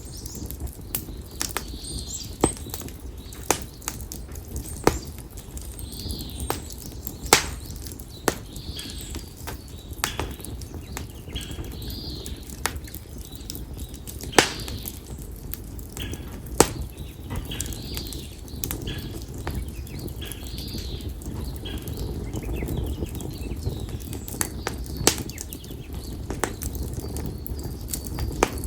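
Konara oak (Quercus serrata) firewood burning in a campfire, crackling with sharp, irregular pops and snaps over the low rush of the flames. A bird chirps over and over in the background.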